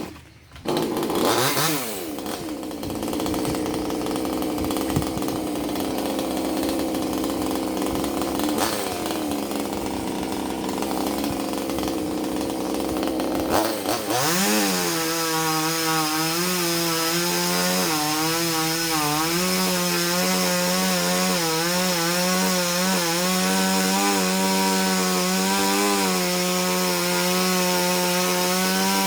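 Chainsaw revving up about a second in, then running at high revs, cutting coconut wood. About halfway through, its note turns steadier and clearer, wavering up and down with the throttle.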